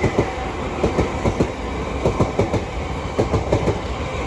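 Southeastern Networker electric multiple unit (Class 465/466) passing at speed, its wheels clicking over rail joints in a steady clickety-clack over a running rumble.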